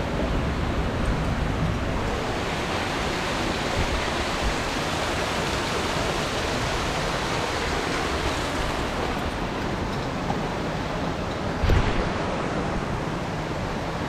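Steady rush of water in a mountain stream, with a brief low thump near the end.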